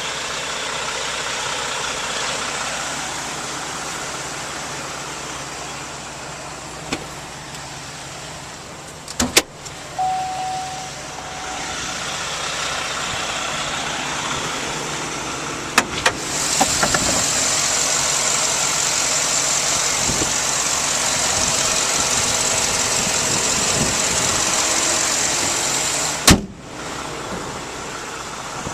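A vehicle's engine running, with several sharp clunks and a brief tone about ten seconds in. For roughly the last ten seconds a louder steady rush rises over it, then cuts off suddenly with a clunk.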